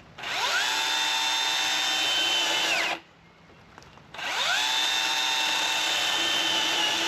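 Milwaukee M18 top-handle battery chainsaw run twice in a cut. Each time the motor whines up to speed within about half a second and runs steady for close to three seconds before stopping. It is held in the wood with light pressure, and the owner says the chain is still not cutting right.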